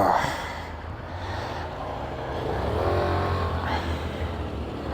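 Motorcycle engine running on the move, with a steady low hum. A vehicle passes loudly right at the start, falling in pitch, and about three seconds in the bike's engine note rises as it accelerates.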